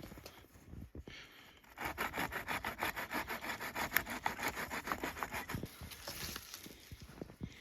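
Hand saw cutting through a branch of firewood in quick, even back-and-forth strokes, starting about two seconds in and easing off after about five seconds.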